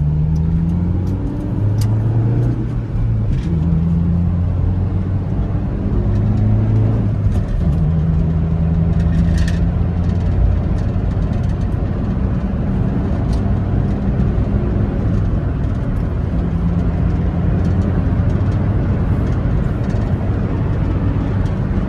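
Hyundai i10's 1.2-litre four-cylinder petrol engine pulling at highway speed, heard from inside the cabin over steady tyre and road noise. The engine note rises and falls over the first several seconds, then holds steadier.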